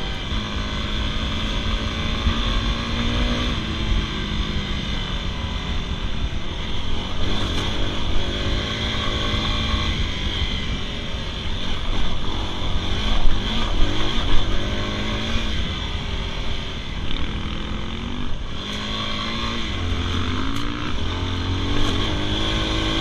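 Dirt bike engine revving, its pitch rising and falling again and again as the throttle is worked, loudest about 13 to 15 seconds in.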